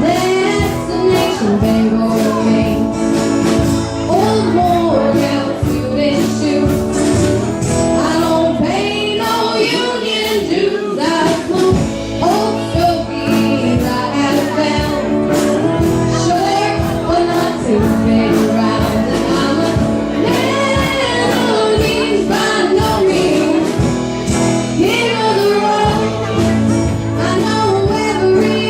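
A song performed with singing over backing music with a steady beat.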